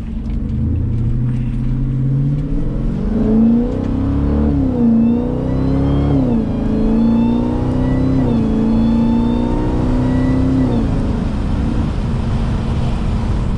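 Jeep Grand Cherokee Trackhawk's supercharged Hemi V8, tuned to about 1000 hp, accelerating hard: the engine note climbs, drops back at three upshifts and climbs again, then falls away as the throttle is lifted near the end. A higher whine rises and falls along with the engine.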